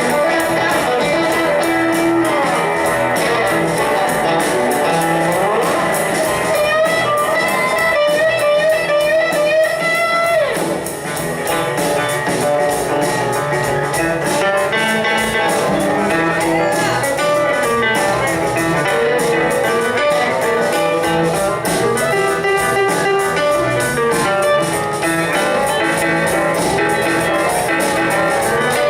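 Live band playing a bluesy song with guitar to the fore. About ten seconds in, a long held, wavering note slides down in pitch.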